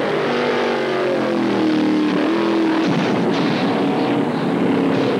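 Car engine running hard at high revs, its pitch holding and sliding as the car races and jumps.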